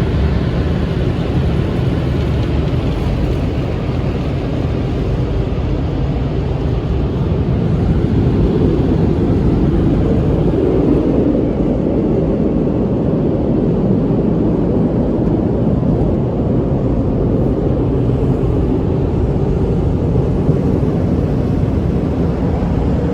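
Car wash equipment running with a loud, steady rushing noise that swells a little about halfway through.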